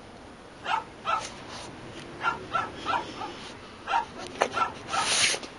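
A dog barking repeatedly: about ten short barks and yips at irregular intervals, some in quick pairs and threes.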